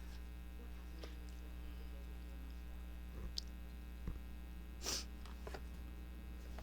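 Steady electrical mains hum, with a few faint taps and a short rustle from paper being handled about five seconds in.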